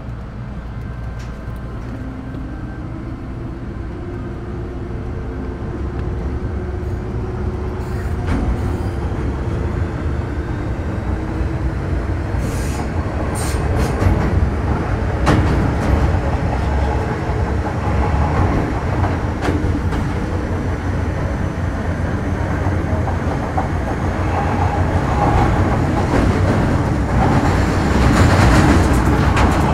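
Metro Cammell M-Train electric multiple unit with GEC GTO chopper traction, running under power with its chopper and motor tones rising in pitch as it gathers speed. Wheel and track rumble grows steadily louder, with brief high wheel squeals partway through and near the end.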